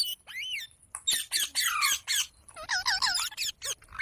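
Parrot giving quick runs of short squawks and chirping calls that sweep up and down in pitch, in bursts with short pauses between them.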